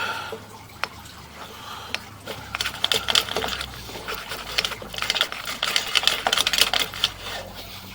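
Sewer inspection camera's push cable being fed into a 3-inch cleanout, giving rapid, irregular clicking and rattling that thickens about two and a half seconds in.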